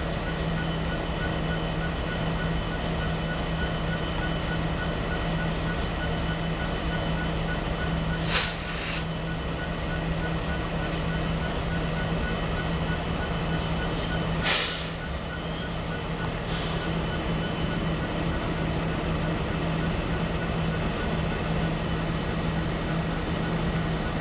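A large truck engine idling with a steady low hum, under an evenly repeating high beep. Two short hisses come about 8 and 14 seconds in, the second the louder.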